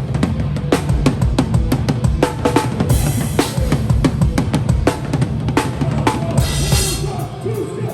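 Drum kit played live in a hardcore band set, heard from behind the kit: fast, steady kick and snare hits over the band's low, droning sound, with a Meinl cymbal wash swelling near the end.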